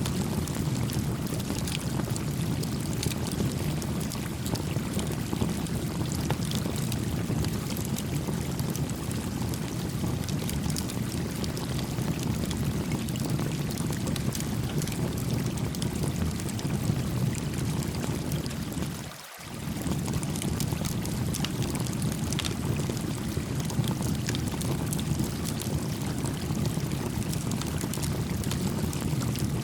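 Creek water flowing with a steady low rush, with faint crackles of a small campfire scattered through it. The low rush drops out briefly about two-thirds of the way through.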